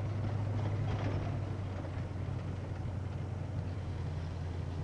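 Car running steadily, heard from inside the cabin as a constant low engine and road hum.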